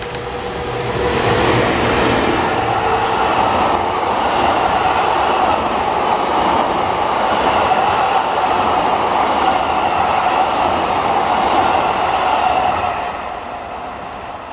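EF210 electric locomotive passing close by, towing a rake of Sotetsu 20000 series EMU cars on their own wheels; a steady noise of wheels running on the rails builds about a second in, holds as the cars roll past, and fades near the end as the train clears.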